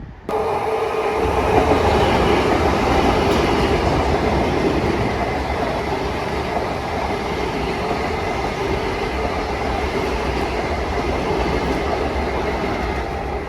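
A Long Island Rail Road train running past close by: a loud, steady rush of wheels on rail with a few steady whining tones over it. It starts abruptly just after the opening.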